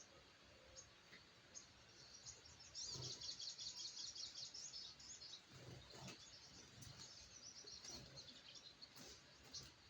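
Brown-throated sunbird (sogok ontong) chirping high and thin, breaking into a rapid chattering run about three seconds in, then scattered single chirps. A few faint knocks sound among the calls.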